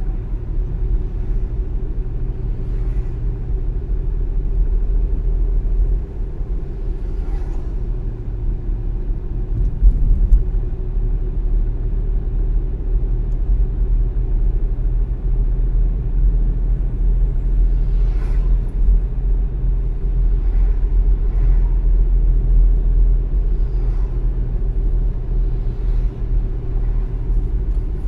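Steady low rumble of a car driving along: road and engine noise, with a few faint ticks and a brief bump in loudness about ten seconds in.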